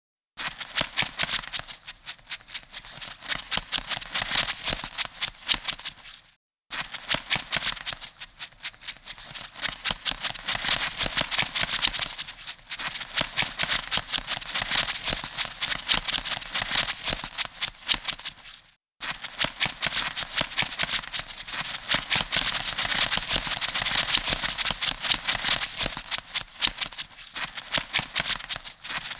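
Crab sound effect: a dense, rapid clicking rattle, starting about half a second in and cutting out briefly twice, as a loop restarts.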